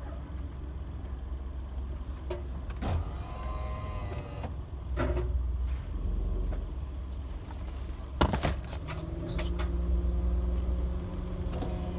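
Car engine idling, heard from inside the cabin, with several knocks and clunks; the loudest clunk comes just past the eight-second mark.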